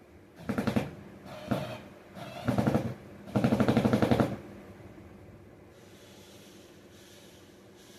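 A power drill-driver run in four short bursts, each a rapid rattling of fast repeated impacts, the last and longest about a second long, as a screw is driven into the recliner.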